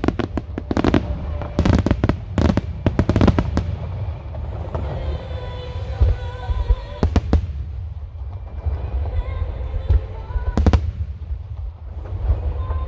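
Fireworks from a wide starmine barrage: a rapid cluster of sharp bangs in the first few seconds, then single scattered bursts, over a continuous low rumble of booms.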